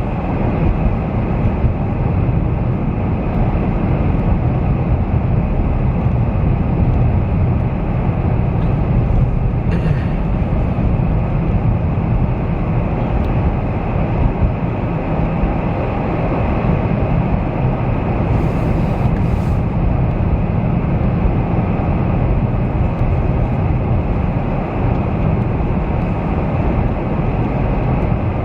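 Steady low rumble of a car driving on a winter road, tyre and engine noise heard from inside the cabin.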